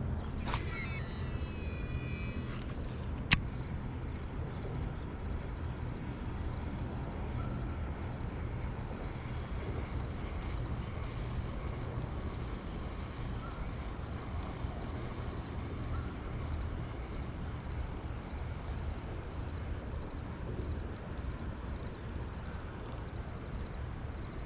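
Steady low outdoor rumble, like distant traffic or wind on the microphone, with a brief high chirping near the start and one sharp click about three seconds in.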